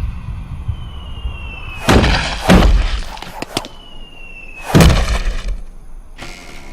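Loud crashing impacts, twice preceded by a thin falling whistle: one crash about two seconds in with a second hit half a second later, and another near five seconds, with lighter knocks between.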